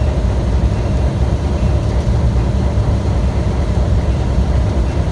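Ride train rolling along the track: a steady low rumble.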